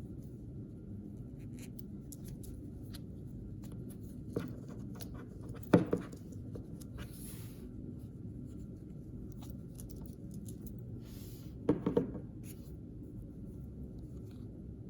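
Hands unboxing blind-bag packaging and small toys: quiet rustling and scratching with a few short crinkles, and two sharper clusters of taps or clicks, one about six seconds in and one about twelve seconds in, over a steady low hum.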